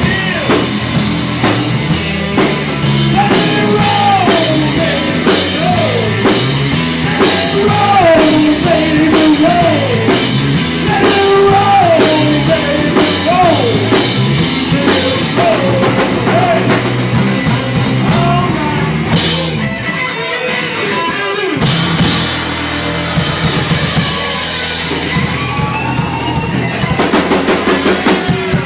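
Live rock band playing: drum kit and bass under a lead line of bending, sliding notes. The cymbals drop out for a few seconds about two-thirds through, then a busy drum fill comes near the end.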